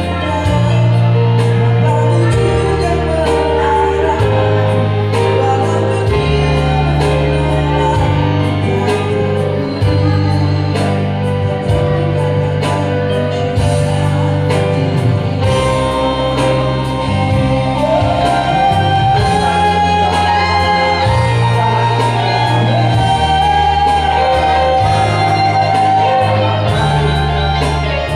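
Live band music with a male voice singing a melody over a steady beat and bass line.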